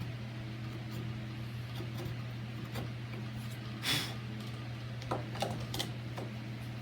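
A few short scrapes and taps as a hand tool trims the latch recess in a fiberglass door edge, with one longer scrape about four seconds in. A steady low hum runs underneath.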